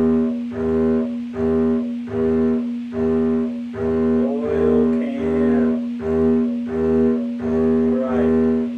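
Double bass bowed on one string, the same note repeated in short even strokes about twice a second, as a warm-up exercise for the bow arm.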